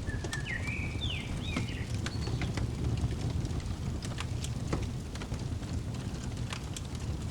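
Fireplace crackling, with scattered sharp pops over a low steady rumble. In the first two seconds a songbird gives a short phrase of whistled notes that step up and down in pitch.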